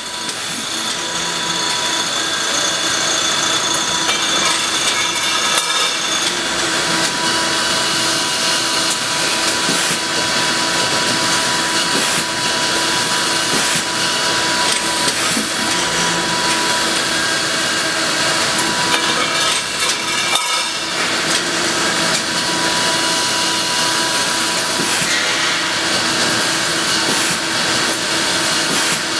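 Hautau tube cut-off lathe running, cutting and bevelling tubes, with a steady machine whine and frequent short clatter throughout.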